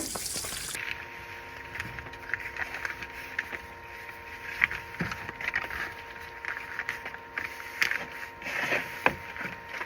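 Campfire wood burning, crackling and popping in irregular snaps.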